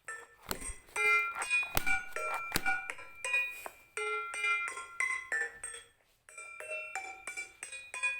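A tuned drum played note by note in a slow, relaxing melody: separate struck notes that ring and fade, about two a second, with a few sharper knocks in the first three seconds and a short pause about six seconds in.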